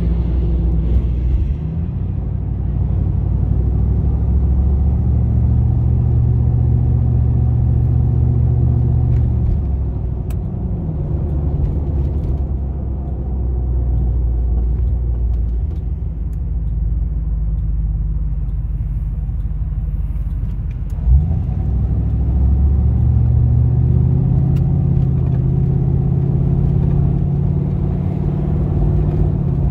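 GMC Vandura / Chevy G20 van's V8 engine running under way, its note climbing, holding, easing off, then climbing and holding again as the throttle changes. One short sharp knock about two-thirds of the way through.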